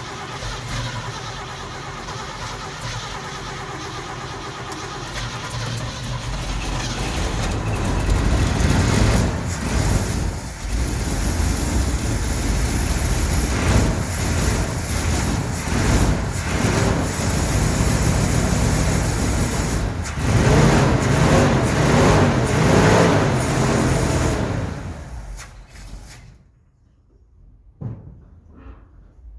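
1969 Ford F100 engine cranking and running on its freshly rebuilt carburetor. It grows louder about a third of the way in and shuts off near the end. The run is not right: the owner finds the float bowl isn't filling, with the new power valve dumping fuel into the throat.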